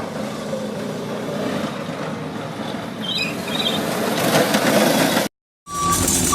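A vehicle engine running steadily, growing louder about four seconds in, then cut off abruptly by a split-second silence. A louder new scene follows with a repeating electronic beep.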